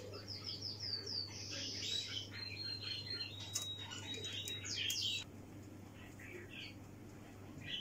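A small bird chirping and singing in quick runs of high notes, with a held whistled note in the middle. It cuts off suddenly about five seconds in, over a steady low hum.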